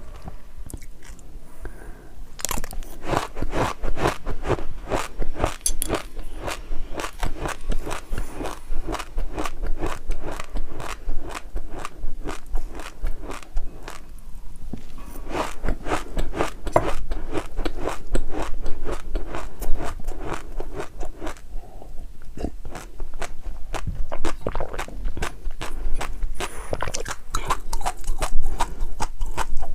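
Close-up crunchy biting and chewing: a person eats a mouthful of crisp food, with a steady run of sharp crunches and short pauses between chews.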